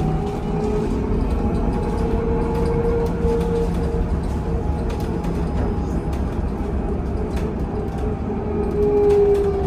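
Trolleybus interior ride noise: the electric traction drive whines in thin tones whose pitch rises and then falls as the vehicle speeds up and slows, over steady road rumble and scattered small rattles.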